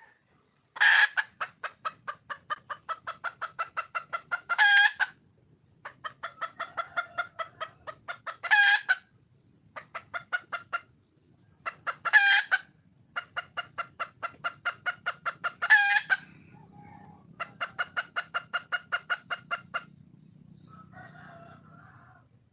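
Wild junglefowl hen cackling: fast runs of clucks, about six a second, broken every few seconds by a loud drawn-out call, five loud calls in all. It is a hen's call for a mate.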